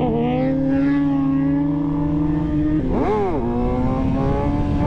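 Sport motorcycle engine running at a steady pitch while riding, with a quick rev that rises and falls about three seconds in.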